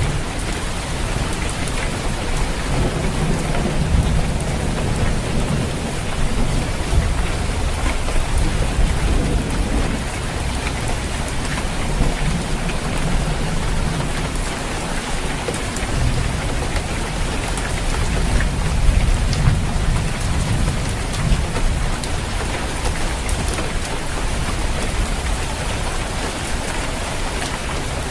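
Heavy rain falling on a roof, a steady dense hiss. Low rumbles swell and fade several times underneath it.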